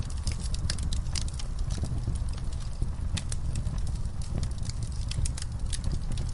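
Campfire burning, with irregular sharp crackles and pops of the wood over a steady low rumble.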